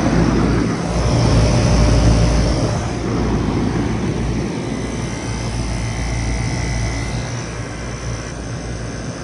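Bard 5-ton wall-hung heat pump running in heat mode: a steady fan whoosh over a low compressor hum.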